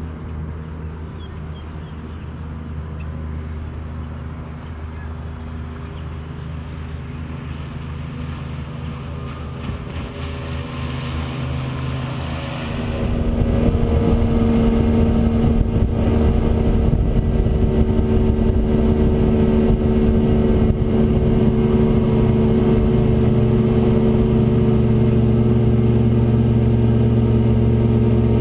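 Johnson 150 HP outboard running steadily as the boat is under way, with a low, even engine tone. About halfway through, the sound jumps suddenly louder and fuller, with a rushing hiss on top.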